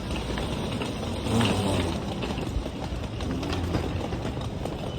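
Steady low rumble of a train running, heard from inside the carriage, with a brief louder swell about a second and a half in.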